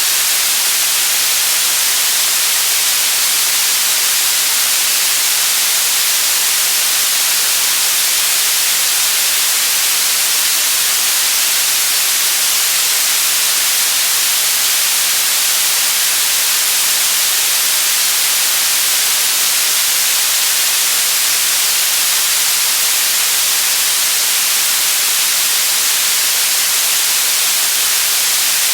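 Loud, constant white noise: an even hiss, brightest in the treble, that never changes.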